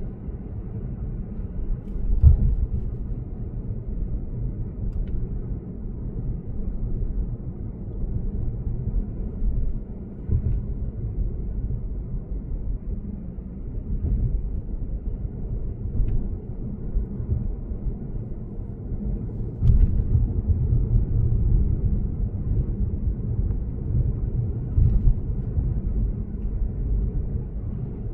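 Steady low road and tyre rumble of a Lexus GS450h cruising on an expressway, with a few light thumps scattered through it.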